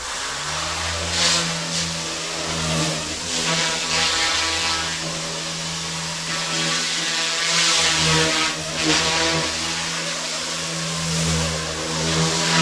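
Goosky S1 micro collective-pitch RC helicopter in flight: its brushless motors and rotor blades give a steady buzzing whine, with several louder whooshing swells from the blades.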